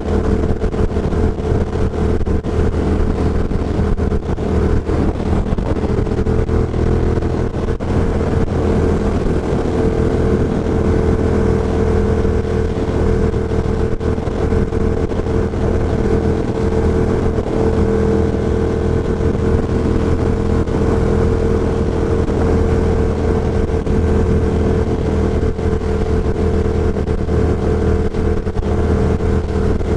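Ducati Diavel Carbon's 1198 cc L-twin engine, breathing through an Austin Racing GP2 exhaust, running at a steady, nearly unchanging pitch while riding, heard from a mic inside the rider's helmet.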